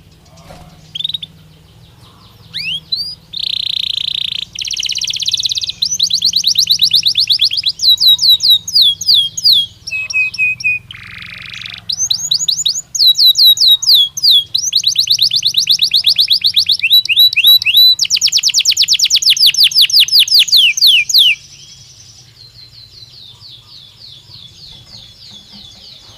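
Belgian canary singing a long song made of fast trills, each phrase a rapid run of repeated notes, switching to a new trill every second or two. Near the end it drops to a softer, steady trill.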